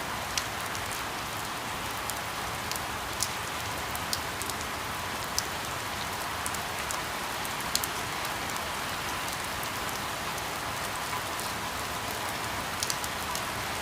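Steady rain falling, a continuous hiss with individual drops ticking sharply here and there.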